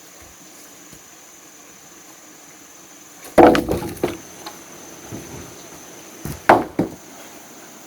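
Pieces of wood knocking together or being struck: one loud knock with a short clatter about three and a half seconds in, then three quick knocks near the end. A steady high insect drone runs underneath.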